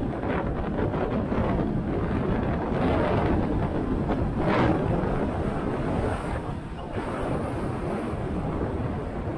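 Wind buffeting the microphone on a moving motorcycle, with the bike's engine and road noise running underneath. There is a brief louder gust about four and a half seconds in.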